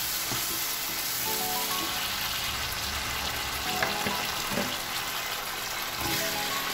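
Curry paste sizzling steadily in hot oil in a wok as it is stirred with a wooden spatula, with a couple of light knocks of the spatula against the pan about four seconds in.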